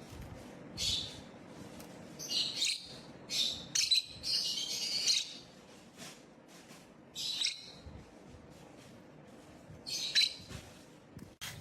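Pet parrot chirping: a series of short, high calls at irregular intervals, with a longer run of chatter around the middle.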